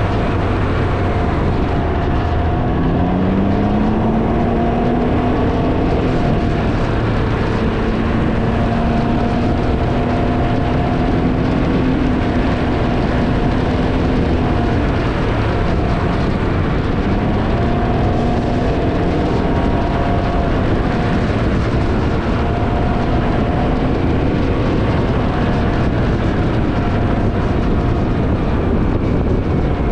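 Can-Am Ryker three-wheeler's engine running at road speed under heavy wind noise on the microphone. The engine note rises as it accelerates a few seconds in, then holds fairly steady with small changes in pitch.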